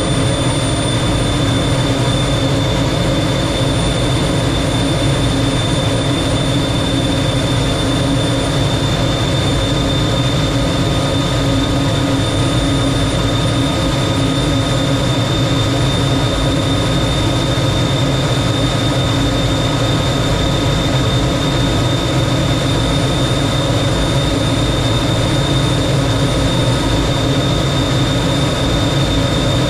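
T-33 jet trainer's turbojet engine running steadily in flight: a constant loud rush with a steady high whine over it.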